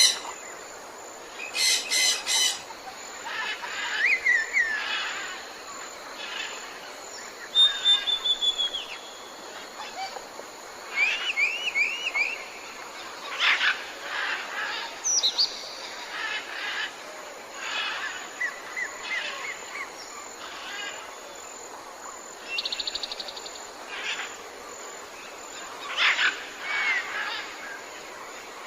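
Several birds calling one after another over a steady background hiss: sharp chirps, a run of looping whistled notes, a short falling trill and a buzzy rattle.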